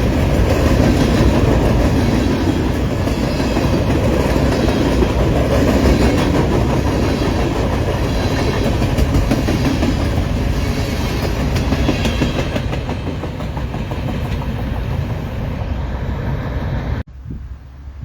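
Railroad cars rolling past, their wheels clicking over the rail joints in a steady loud rumble. The sound cuts off abruptly near the end.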